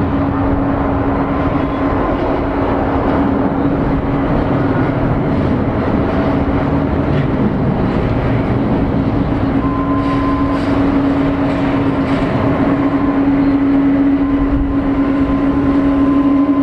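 Boeing 767-300ER's twin General Electric CF6-80C2 turbofan engines at takeoff power: a steady loud rush with a steady low hum through it, growing slightly louder near the end.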